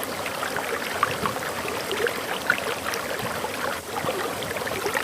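Waterfall flowing steadily, a constant rush of water with many small splashes and gurgles.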